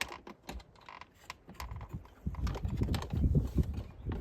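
Center console armrest hinge parts and a small coil spring being worked into place by hand: a string of light plastic and metal clicks and taps, with duller handling knocks in the second half.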